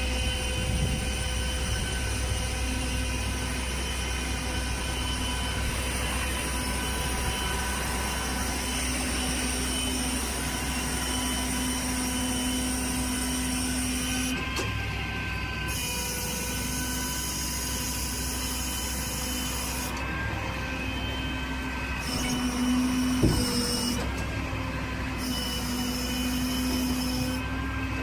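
Flatbed rollback tow truck driving, heard from inside the cab: a steady engine drone with road noise. A single sharp knock comes about 23 seconds in.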